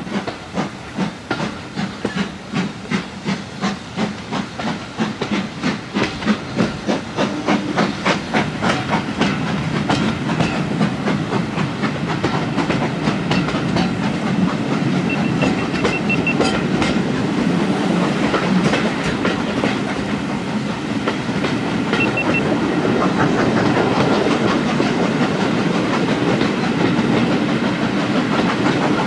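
Steam-hauled heritage passenger train heard from a carriage window as it pulls away and gathers speed. Evenly spaced beats quicken over the first ten seconds or so, then settle into a steady rumble and clatter of wheels on the track.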